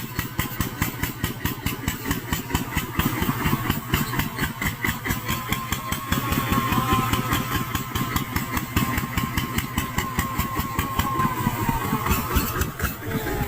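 Small Kubota tractor's diesel engine running steadily with a rapid, even chug.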